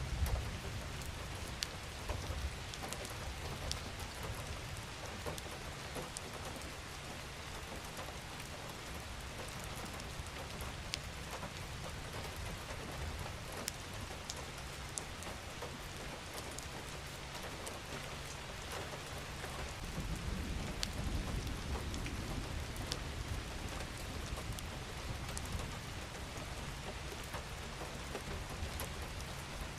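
Steady rain falling, with scattered individual drops ticking on a surface. A low rumble swells about twenty seconds in and fades over a few seconds.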